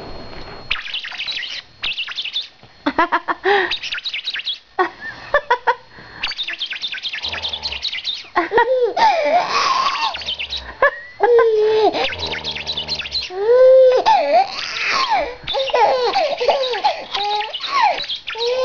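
Baby laughing and squealing in a run of short, high, bouncing bursts, with brief pauses between them.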